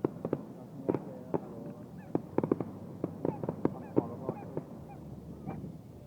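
Fireworks crackling and popping in a rapid, irregular series of sharp bangs that thin out near the end.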